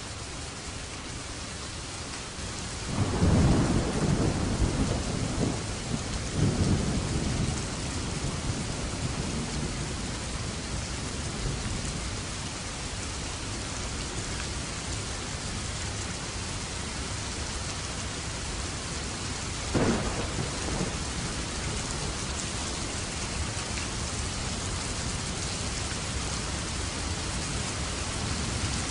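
Steady rain falling, with thunder rumbling about three seconds in and again a few seconds later, and a short, sharp thunderclap later on.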